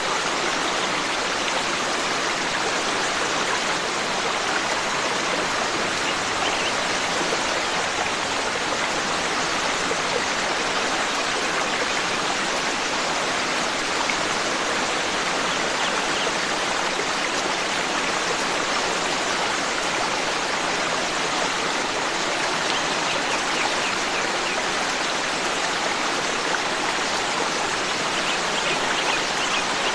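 Forest stream flowing, a steady rush of water with no breaks.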